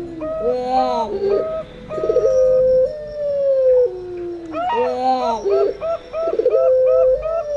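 Puter pelung collared doves giving their long drawn-out coo, a held note that slides down in pitch, about three seconds in and again near the end. Zebra doves (perkutut) coo around them in quick, short repeated notes and rolling trills.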